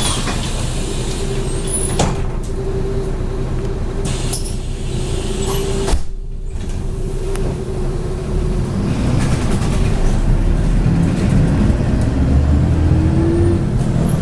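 MAZ-103 bus running under way, heard from inside: steady engine and road rumble with a held whine, a sharp click about six seconds in, then the engine pulls harder and a whine rises in pitch near the end as the bus gathers speed.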